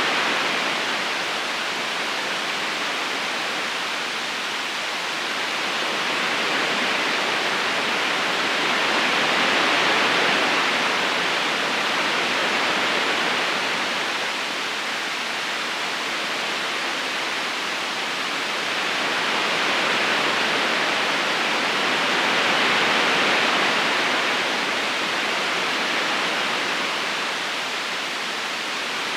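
River water rushing steadily over stones, gently swelling and easing about every ten seconds.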